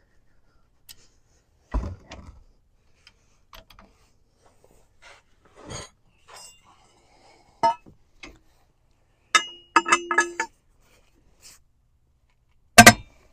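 Metal hand tools clinking and knocking in scattered strokes. A quick run of ringing metal clinks comes about nine to ten seconds in, and a single loud, sharp clank comes near the end.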